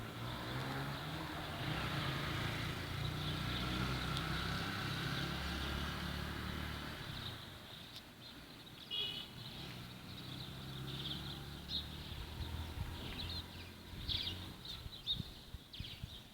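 A motor vehicle's engine running with a steady low hum, fading away about seven seconds in. Then scattered short, high bird chirps.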